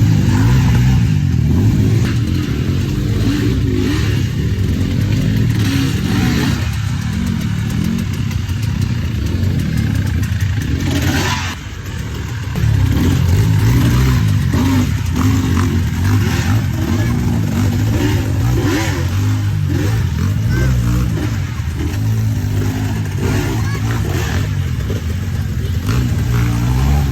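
Off-road trail motorcycle engine running and revving hard, the revs rising and falling, with a brief drop in loudness a little before halfway.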